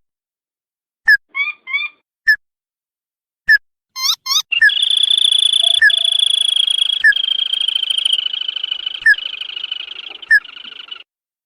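Recorded call of the sintar padi (tikusan), a rail used as a lure call: sharp single chirps every second or so, then a long fast rattling trill that lasts about six seconds and fades toward the end, with the single chirps still sounding over it.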